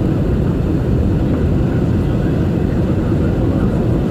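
Steady low roar of airflow and jet engines heard inside the cabin of an Airbus A321 in flight.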